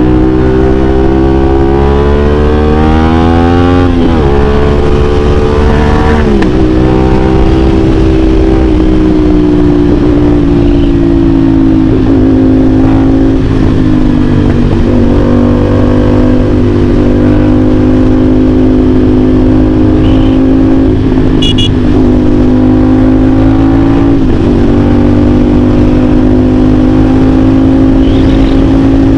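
CFMOTO 450SR S parallel-twin engine through an aftermarket AR exhaust, ridden on the road. The revs climb over the first few seconds, with upshifts about four and six seconds in, then it holds a steady cruise with small throttle changes.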